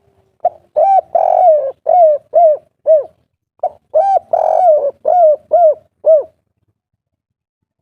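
Spotted dove (derkuku) cooing in the 'kuk 3' style: two phrases, each with a couple of lead-in notes, one long drawn coo, then three short clipped coos.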